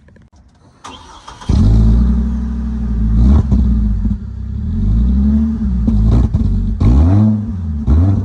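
Hummer H3 engine started with its rear muffler cut off: the starter cranks about a second in, the engine catches and settles into a loud idle, then is revved four times, each rev rising and falling back.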